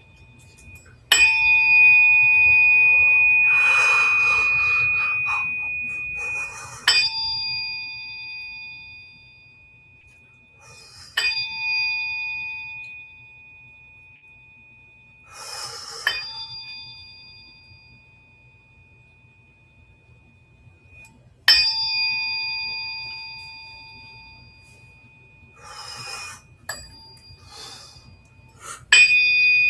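Metal tuning forks struck about six times, each one ringing out in a high, bell-like tone and fading over several seconds, with brief rustling between strikes.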